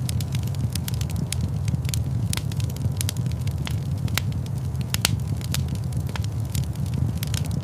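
Log fire in a fireplace crackling gently, with irregular sharp pops and snaps over a steady low rumble of flames.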